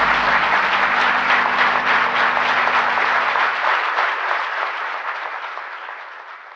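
Audience applauding at the end of a speech, the clapping fading out over the last few seconds.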